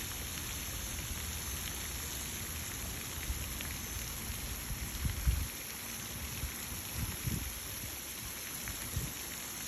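Pond fountain spray splashing onto the water: a steady, rain-like hiss, with a few low bumps of wind on the microphone, the strongest about five seconds in.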